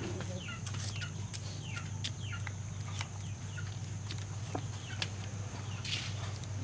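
Chickens, chiefly chicks, peeping in a run of short falling cheeps, about two a second, over a steady low hum.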